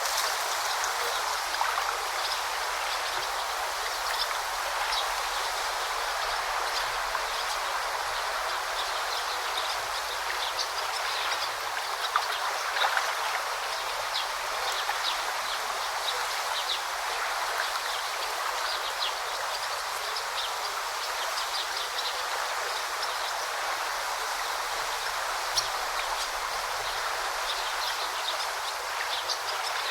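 Steady, even rush and babble of a forest river, with many short high-pitched ticks over it.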